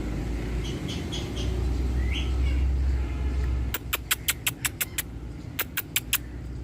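Rose-ringed parakeet calling: a short rising chirp, then two quick runs of sharp, clipped chirps at about seven a second, over a low rumble of traffic that stops partway through.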